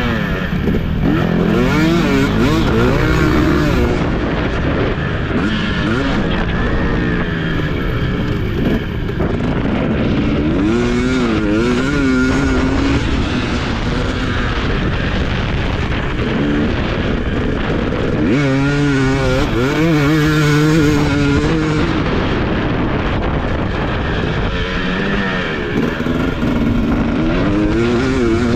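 Husqvarna TC250 motocross bike engine revving up and down again and again as it is ridden hard around a dirt track, the pitch rising on the throttle and falling back between bursts.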